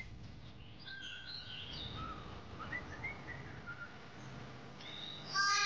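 Faint scattered bird chirps and whistles, then near the end a louder, harsh animal call with a falling pitch.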